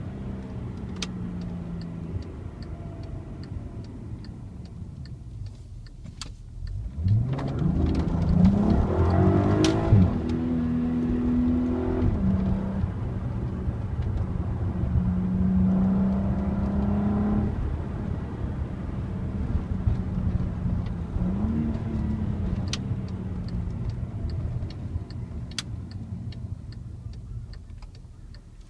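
Volkswagen Passat R36's 3.6-litre VR6 engine driving: the revs sit low, then about seven seconds in climb steeply under hard acceleration, drop sharply at the upshift about three seconds later, and hold steady under load with further drops at gear changes before easing off near the end. A light regular ticking is heard early on and again near the end.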